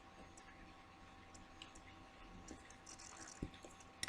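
Near silence: room tone with a faint steady hum, a few faint small clicks, and a soft knock about three and a half seconds in.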